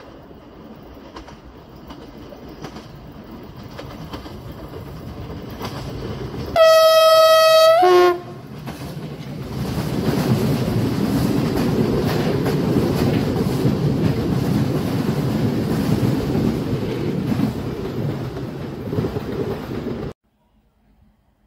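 Diesel passenger train approaching and growing louder, sounding one long horn blast about six seconds in, followed by a brief lower horn note. It then passes close below with a loud rumble and clatter of wheels on the rails, which cuts off abruptly near the end.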